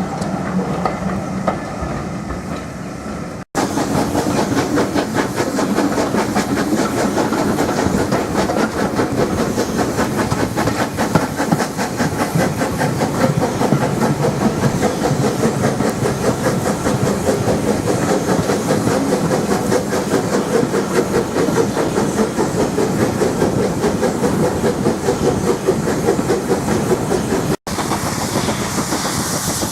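Heritage-railway train on the move, with a fast, even clatter of wheels over the rails and some hiss. The sound drops out abruptly twice, at edit cuts, about three and a half seconds in and near the end.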